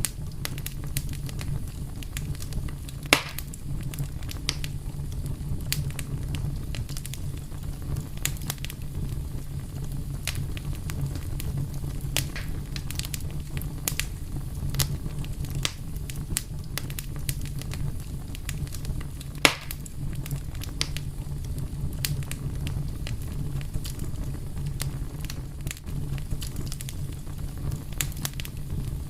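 Wood fire crackling steadily over a low rumble, with frequent small snaps and two louder pops, one about three seconds in and one a little past the middle.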